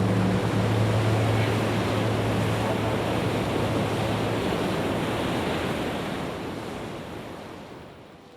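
Steady rushing noise with a low steady hum beneath it that stops about halfway through; the rushing fades out over the last few seconds.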